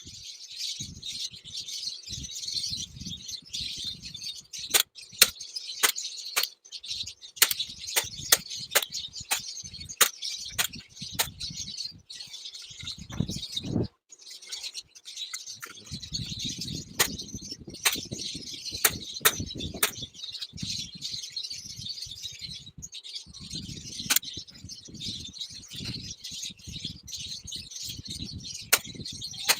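Many small birds chirping continuously, with sharp knocks or taps scattered throughout, a few a second in places, and bouts of low rumbling handling noise.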